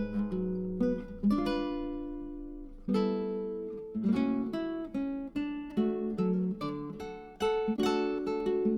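Background music: acoustic guitar, plucked and strummed chords that ring and fade between strikes.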